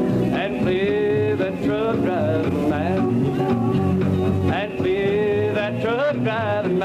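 Country band playing an instrumental passage: a lead line bending in pitch over guitar and bass with a steady beat.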